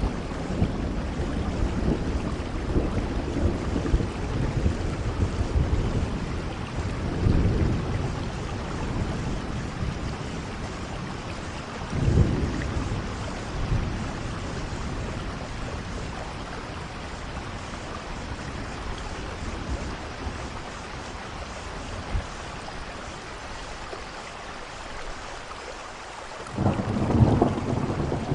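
Steady heavy rain with thunder rumbling: low rolls swell at about 7 and 12 seconds, the rain thins a little through the middle, then a louder rumble breaks in near the end.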